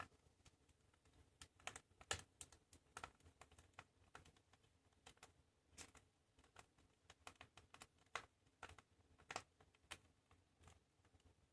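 Wood fire crackling in a fireplace: faint, irregular sharp pops and snaps, a few each second, over a low hiss.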